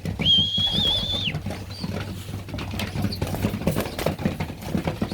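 Young racing pigeons pecking grain from a hand and shuffling about, a run of light taps and rustles, with a soft wing flap or two. Near the start comes one steady, slightly wavering whistle about a second long.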